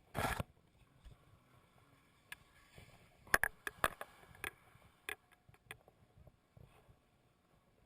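Skis on snow: a brief loud scraping rush, then a string of sharp clatters and knocks a few seconds in.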